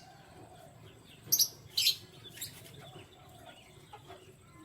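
Canary chirping: two short, sharp high chirps about half a second apart, a little over a second in, with fainter chirps around them and a low steady hum underneath.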